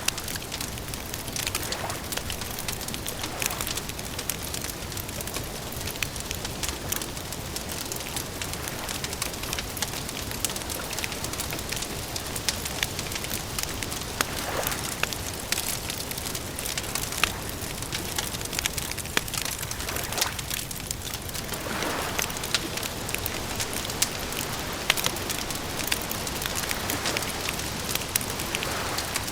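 Campfire crackling: a steady hiss of burning wood with many small sharp pops scattered throughout, a few louder than the rest.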